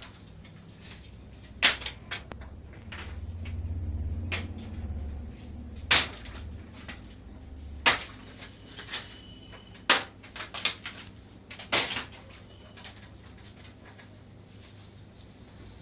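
Irregular sharp knocks and clatters, about a dozen spread over ten seconds, with a low hum swelling and fading a few seconds in.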